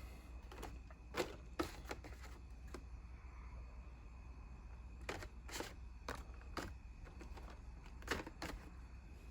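Faint, scattered plastic clicks and taps of carded Hot Wheels cars' blister packs being handled and shuffled, several coming in quick pairs, over a low steady hum.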